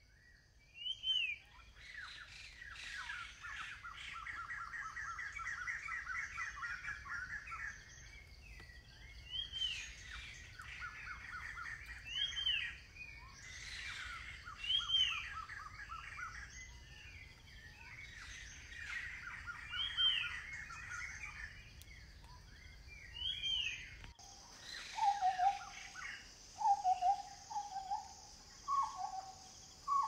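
Forest birds calling: repeated rapid trills, each lasting a few seconds, mixed with short rising chirps. About three-quarters of the way in, the calls give way to a series of lower, short whistled notes over a steady high insect drone.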